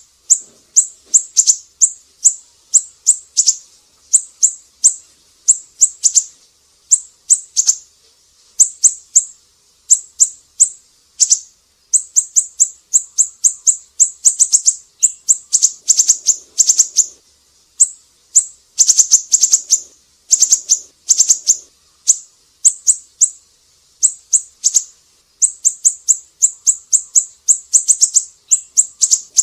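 Siri-siri songbird singing: rapid strings of high, sharp chirps delivered in bursts of a second or two with short pauses between, repeated over and over.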